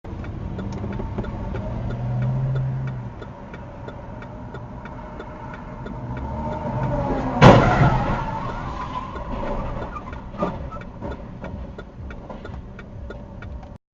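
Car on the road with steady engine and road rumble and a regular ticking, then a loud collision crash about halfway through, followed by a smaller knock a few seconds later.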